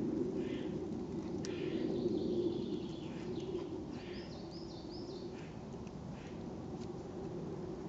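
Wild birds calling and singing over a steady low background noise: short calls about once a second, a long falling note, and a quick run of rising-and-falling notes near the middle.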